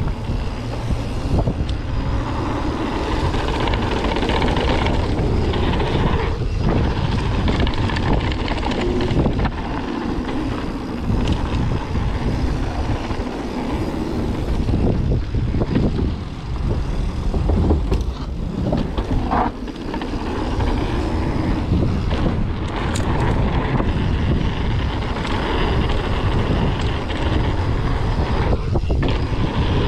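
Wind rushing over the on-board camera microphone, mixed with the rumble and rattle of a mountain bike's tyres and frame on a dirt trail at speed. The noise stays steady and loud, with a few brief dips and sharp clicks from bumps.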